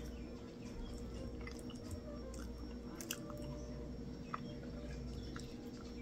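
Close-miked chewing of a mouthful of rice and sauce, with small wet mouth clicks and a few sharper clicks scattered through.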